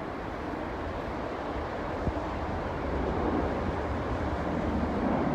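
Jet airliner on approach: a rumbling roar that grows steadily louder, with wind buffeting the microphone.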